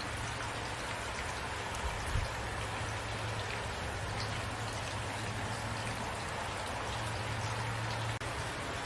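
Steady rain falling, with scattered individual drops tapping and a steady low hum underneath. There is a low thump about two seconds in, and the sound cuts out for an instant near the end.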